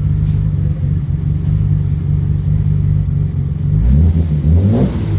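BMW E30's engine idling steadily, then revved in two quick blips that rise and fall near the end.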